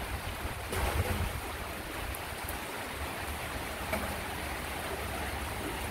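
Heavy rain pouring steadily, a continuous even hiss of falling water.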